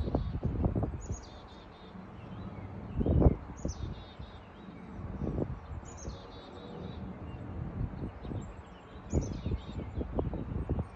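A songbird singing the same short, high phrase over and over, about every two seconds: a quick downward sweep and then a run of repeated notes. Irregular low rumbles and thumps run underneath, the loudest about three seconds in.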